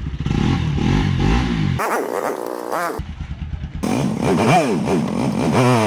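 Motorcycle engine running and revving, its pitch rising and falling as the bike pulls away and rides, with several abrupt jumps where the sound is cut.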